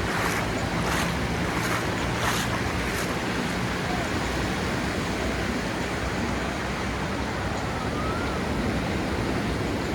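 Ocean waves washing onto a sandy beach, a steady surf noise, with a few faint ticks in the first three seconds.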